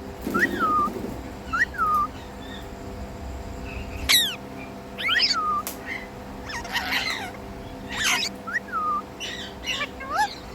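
Pet Indian ringneck parrot calling: repeated short chirps that rise and fall, two or three sharp falling whistles near the middle, and harsher, screechy calls in the second half.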